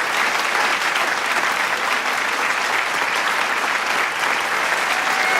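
Large crowd applauding steadily, a dense wash of many hands clapping.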